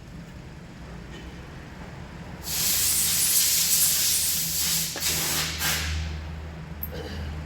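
A loud pressurised hiss, like a jet of compressed air or spray, starting about two and a half seconds in and lasting about three seconds before tailing off, over a steady low hum.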